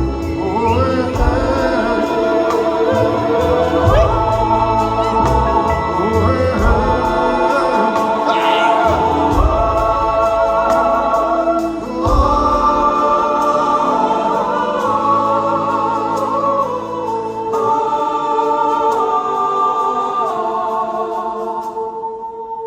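Live concert music: many voices sing a wordless melody in long held notes over the band. The low end of the band drops away about twelve seconds in.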